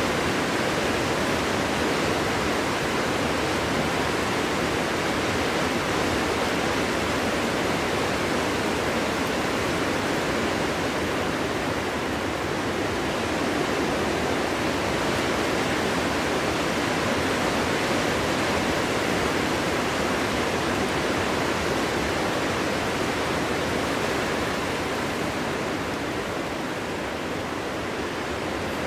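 Steady wind blowing through a forest, an even rushing noise with small swells, easing slightly near the end.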